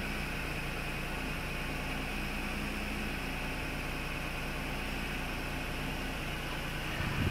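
Acura NSX V6 engine idling steadily while warming up, heard as an even hum with a hiss over it.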